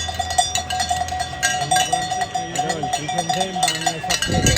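Roadside spectators ringing cowbells fast and without pause, with crowd voices; a low rush swells briefly near the end.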